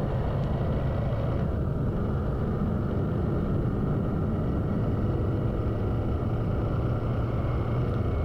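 Motorcycle engine running steadily while riding, a constant low drone under a rush of wind and road noise.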